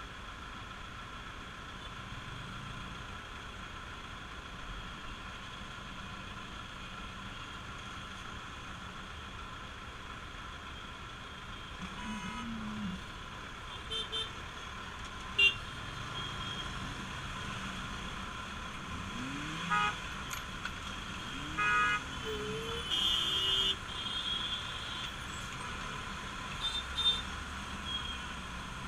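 Bajaj Pulsar RS200 motorcycle riding through traffic: steady engine, wind and road noise. From about halfway through, vehicle horns toot several times in short blasts, one sharp loud one and a longer one near the three-quarter mark.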